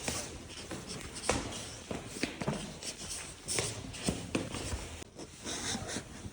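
Irregular light clicks and knocks, like footsteps and handling, over a quiet background.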